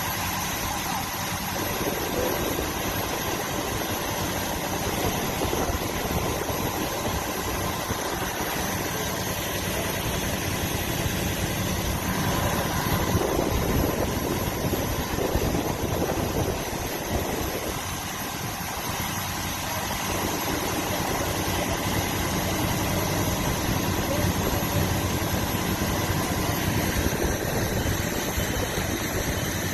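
Fire apparatus diesel engine running steadily at idle, a constant mechanical hum with small swells in level.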